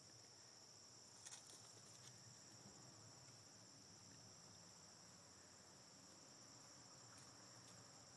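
Faint, steady high-pitched chirring of insects, with a single faint click about a second in.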